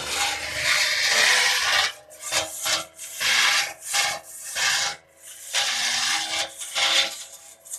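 Tractor-mounted stalk cutter chopping dry tur (pigeon pea) stalks, a harsh crunching rasp that comes in uneven surges with short breaks, over the faint steady hum of the tractor's engine.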